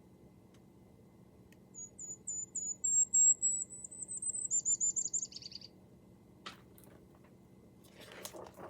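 Recorded golden-crowned kinglet song: a run of very high, thin notes climbing slightly, then a quick tumbling chatter that drops lower, lasting about four seconds.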